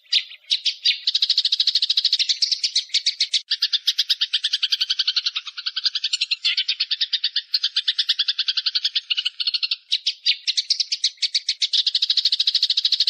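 Small songbirds giving a fast, unbroken chattering trill of high repeated notes, about ten a second, with brief shifts in pattern around a third of the way in and again near the end.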